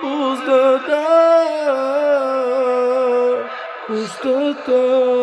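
A singer's voice holding long wordless notes that bend up and down in pitch, a melismatic vocal run, with short breaks about three and a half and four and a half seconds in.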